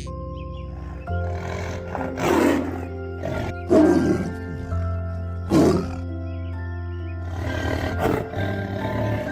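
Hippopotamus giving about four deep roaring grunts, each lasting under a second, over steady background music.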